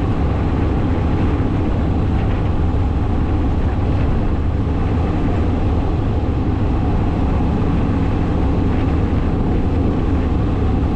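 Motorcycle being ridden at steady speed: constant low wind noise on the microphone, with the engine running underneath.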